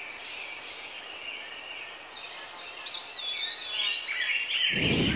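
Birds chirping and singing, with a clearer, busier run of song starting about three seconds in; a low rumble comes in just before the end.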